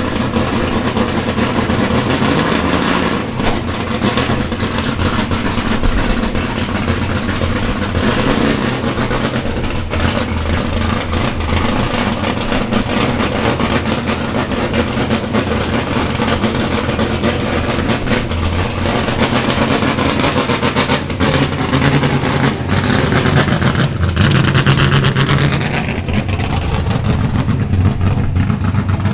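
The 8.1-litre Pontiac 496 all-aluminium big-block V8 of a 1971 Firebird Trans-Am race car running at idle. Its revs rise a couple of times, once about two or three seconds in and again in a longer climb about three quarters of the way through.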